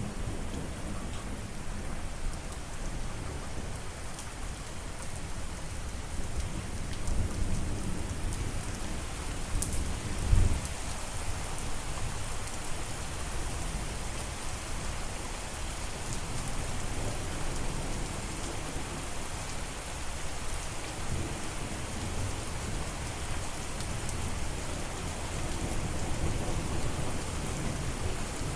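Steady rain falling, with low rolls of thunder swelling underneath; the loudest, a short low thump, comes about ten seconds in.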